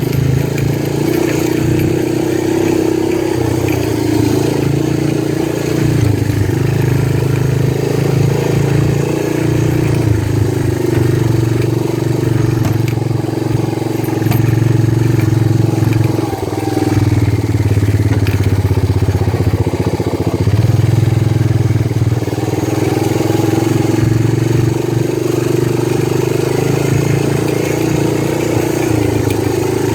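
Small motorbike engine running steadily, its speed rising and falling a little, with a short dip about sixteen seconds in.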